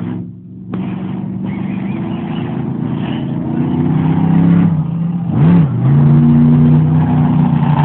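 Monster truck engine running and revving. It climbs in pitch through the middle, gives one quick blip of the throttle about five and a half seconds in, then holds at a steady high rev, louder than at the start.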